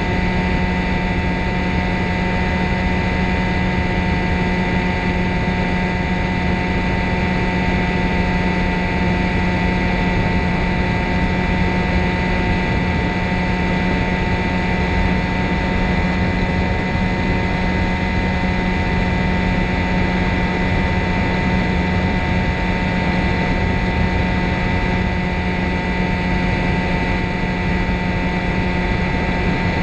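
Ultralight trike's engine and propeller droning steadily at an even pitch over a constant hiss, with no change in power.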